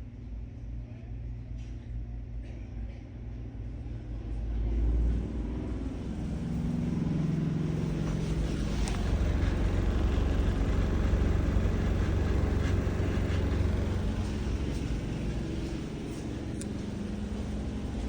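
Hampton Bay exhaust fan running with a steady low hum and a vibrating rattle, growing louder about five seconds in.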